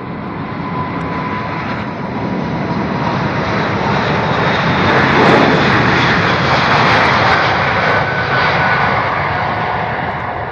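Jet airliner's engines passing close by, the noise swelling to a peak about halfway through and then fading, with a faint whine over the rush.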